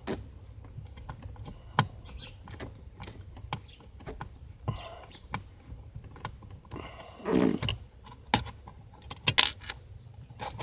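Scattered small clicks and taps, with a brief scrape about seven seconds in and a quick cluster of sharp clicks near the end, from hand tools and a small screw being worked against the plastic trim of a steering wheel housing.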